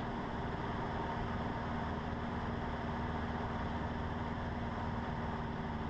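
Cessna 150's four-cylinder Continental O-200 engine and propeller running steadily at constant power in flight, heard from inside the cockpit as an even drone.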